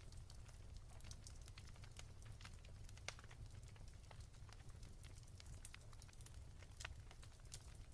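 Wood fire crackling softly: irregular small pops and snaps, several a second, over a steady low rumble.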